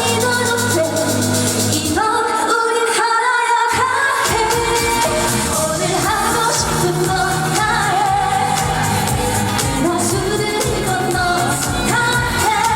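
A woman singing a trot song live over a band backing track through a PA system. The bass drops out about two seconds in and comes back around four seconds.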